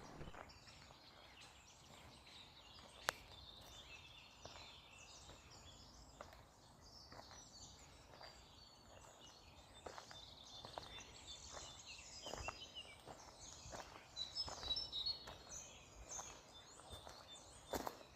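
Faint outdoor ambience: small birds chirping high and intermittently, busiest in the second half, with scattered soft knocks or steps.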